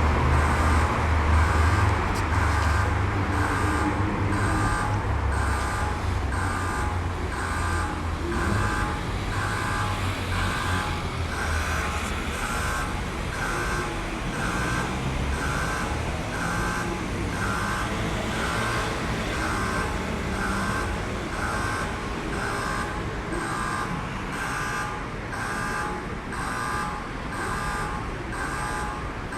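Station platform emergency-stop alarm sounding after the emergency button was pressed: an electronic tone pulsing steadily about one and a half times a second. A low rumble underneath fades away about halfway through.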